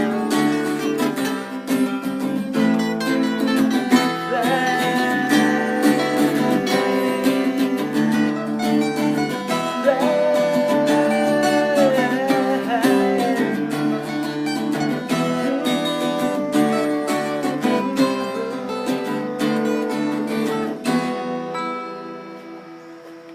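Acoustic guitar strumming chords, with a melody line that bends in pitch partway through, in the closing instrumental of an acoustic rock song. The playing dies away over the last couple of seconds.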